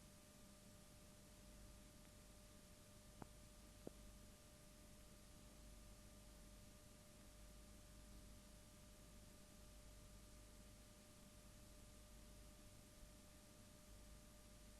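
Near silence: a faint steady hiss with a faint steady hum, and two faint clicks a little over three seconds in.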